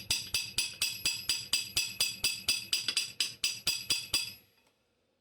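Rapid, evenly spaced hammer blows on metal while riveting, about four to five strikes a second, each with a short bright metallic ring; they stop about four seconds in.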